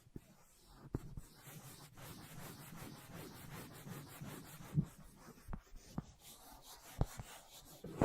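ASMR tapping and scratching on an object: a fast run of light scratchy strokes, with single sharper taps about a second in, near the middle and twice toward the end.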